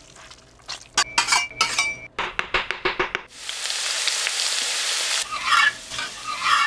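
Cooking in a wok: several short scraping stirring strokes, then a steady sizzle of meat frying for about two seconds, then more stirring strokes.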